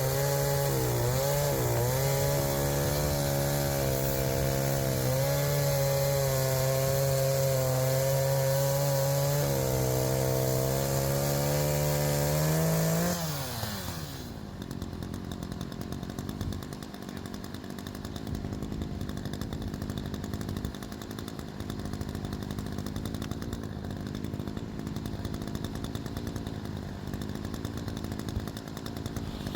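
Chainsaw running at high revs while bucking a log, its pitch wavering slightly under load, for about thirteen seconds. Then the revs fall away and it runs on much more quietly.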